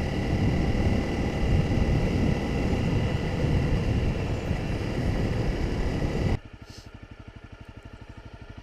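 Honda CRF250 Rally single-cylinder motorcycle ridden at speed, its engine under a loud, even rush of riding noise. About six seconds in the noise cuts off suddenly, leaving the engine idling with a fast, even putter.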